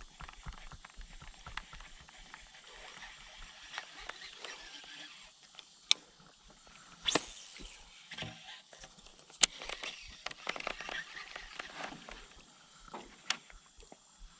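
A baitcasting rod and reel being cast and worked: a few sharp clicks and short rustles of tackle handling over a low hiss.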